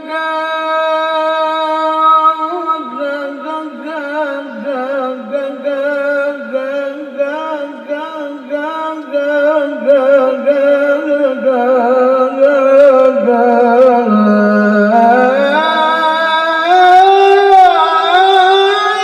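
A solo male voice singing Arabic sholawat in the melismatic qari style: long held notes decorated with quick wavering ornaments. The melody sinks to a low held note about two-thirds of the way through, then climbs to a higher sustained pitch.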